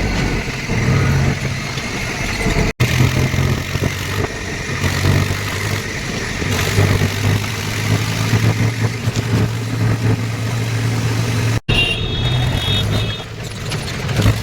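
Tractor engine running steadily with a low drone, rising and falling slightly. The sound drops out suddenly for a moment twice.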